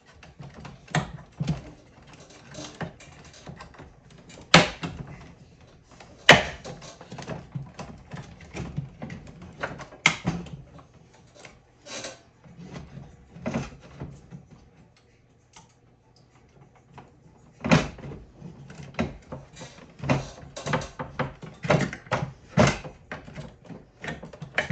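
Irregular knocks, clicks and clunks of plastic and metal parts being handled and pushed as a replacement blower fan motor is worked into a mini-split heat pump's air handler, with the sharpest knocks about four and a half, six, ten and eighteen seconds in. A faint low hum sits under the first two-thirds.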